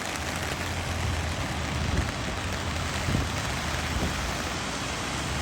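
Steady rushing noise of rain and water during the typhoon's passage, over a low, steady hum, with a couple of faint knocks.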